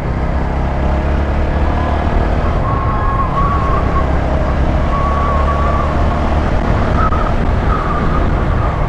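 Single-cylinder engine of a TVS Apache RTR 160 4V motorcycle running steadily while riding, over a heavy low rumble of wind and road noise. A wavering engine note comes in about two seconds in.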